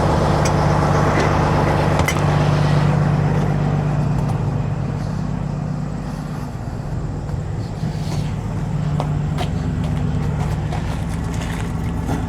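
Kenworth W900's diesel engine idling steadily, with a few light clicks and knocks over it.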